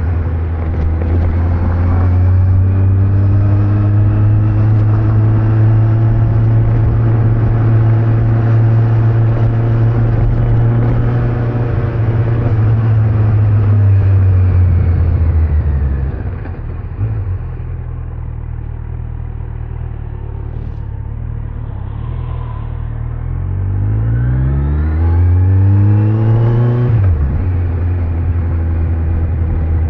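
Kawasaki Z900's inline-four engine, stock exhaust, cruising steadily with road noise, then rolling off to a quieter, lower note about halfway through. Near the end it accelerates through two rising revs that cut off at a gear change, then settles back to a steady cruise.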